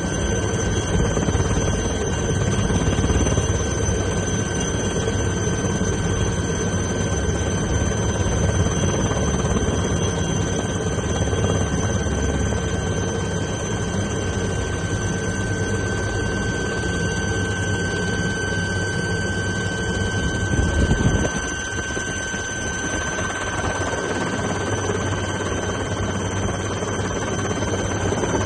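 HAL Cheetah helicopter running, its single turboshaft engine and rotor heard as a steady loud noise with a constant high whine. The deep rumble lessens about 21 seconds in.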